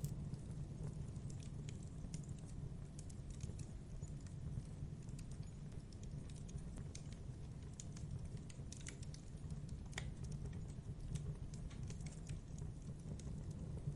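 Wood fire crackling, with irregular small snaps and pops over a steady low rumble of burning. There is one sharper pop about ten seconds in.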